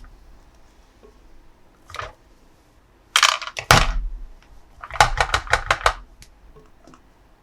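Hard plastic toy parts being handled, with sharp clicks and knocks. A single knock about two seconds in is followed by a cluster of clatter, then a quick run of clicks like parts snapping or rattling together.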